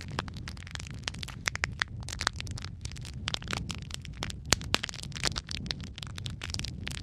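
Wood fire crackling in a fireplace: irregular sharp pops and snaps, several a second, over a steady low rumble of the burning fire. The loudest snap comes about halfway through.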